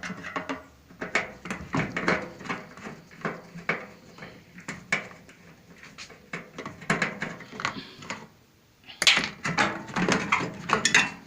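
Screwdriver and hand work on a microwave oven's casing and plastic cover: a run of small clicks, knocks and rattles, a short lull about eight seconds in, then denser clattering.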